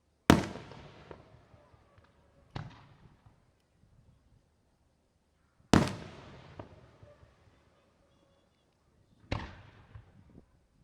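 Aerial fireworks shells bursting four times, a few seconds apart. Each bang is followed by a rumbling echo that dies away, and the first and third bangs are the loudest.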